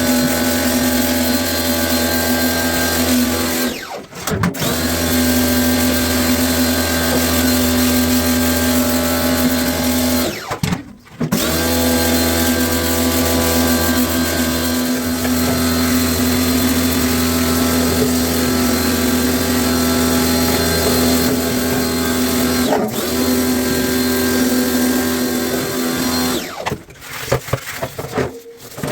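Power tool motor running with a steady, even whine. It stops briefly twice, and near the end it starts and stops several times.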